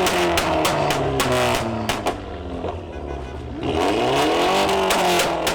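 A car engine revving hard, its pitch rising and falling twice, with music playing over it.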